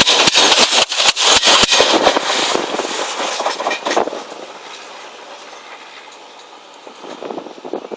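Coach wheels of a passing express train clattering rapidly over rail joints, loud for the first two seconds or so, then fading to a low rumble as the train draws away. The clatter starts to rise again near the end.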